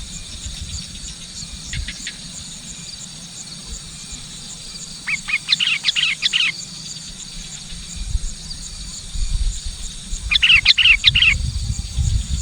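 Sooty-headed bulbul (kutilang) calling in bursts of rapid chirpy notes: a brief one about two seconds in, then longer phrases about five seconds and ten seconds in. A steady high insect buzz and a low rumble run underneath.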